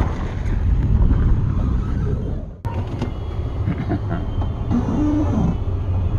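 Jeep Liberty running, a steady low rumble, which drops out briefly about two and a half seconds in; a few short squeaks sound about five seconds in.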